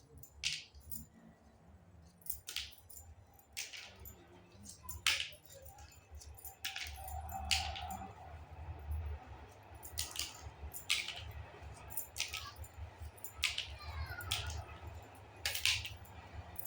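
Small plastic pieces of a miniature Hello Kitty toy kitchen set clicking and tapping as they are handled, with sharp clicks every second or so over a low handling rumble.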